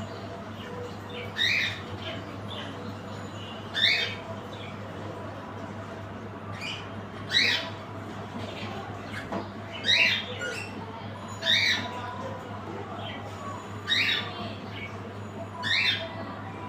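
Cockatiels calling: about seven short, loud calls, roughly one every two seconds, over a steady low hum.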